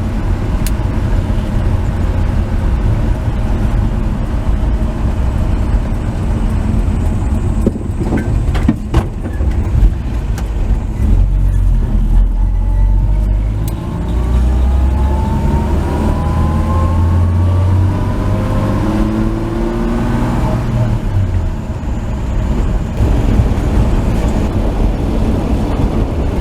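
The 1949 Chevrolet 3100 pickup's inline-six engine running while driving through a turn. There are a few sharp knocks about nine seconds in. Then the truck accelerates, the engine's pitch rising for about six seconds before it eases off.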